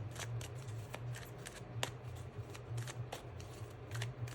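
Tarot cards being shuffled by hand: a run of quick, crisp flicks and snaps, over a low steady hum.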